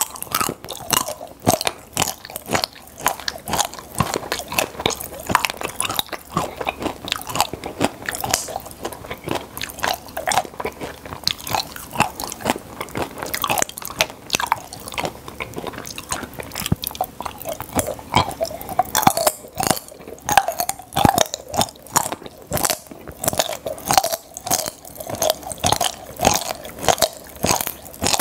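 Close-miked chewing of popping-candy chocolates: many small sharp crackles and crunches, dense and irregular, as the chocolate and the popping candy break up in the mouth.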